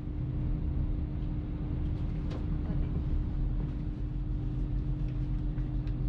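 Hitachi Class 802 bi-mode train running, a low rumble with a steady hum throughout. One faint click about two seconds in.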